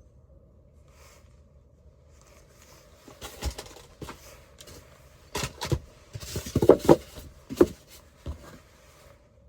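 An irregular series of sharp knocks and rattles, the loudest cluster about six to eight seconds in, over a low steady hum.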